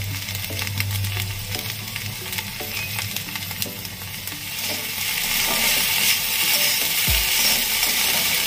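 Sliced okra sizzling as it fries in a kadhai on a low flame, with a metal spatula scraping and stirring it around the pan; the sizzle grows louder from about halfway.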